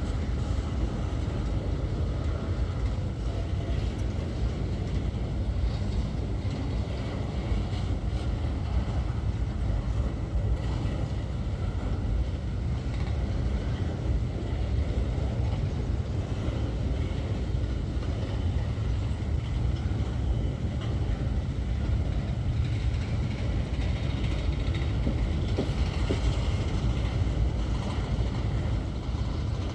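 Empty grain train rolling past: a steady low rumble of wheels on rail that runs on without a break.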